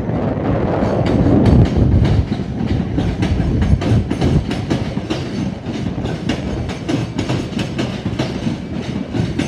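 Class 387 electric multiple unit moving through the station, its wheels clicking in a quick steady rhythm over rail joints and pointwork, with a heavy rumble loudest in the first two seconds.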